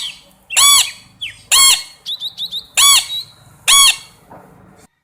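Parrot squawking: four loud calls about a second apart, each rising and falling slightly in pitch, with short high chirps between them.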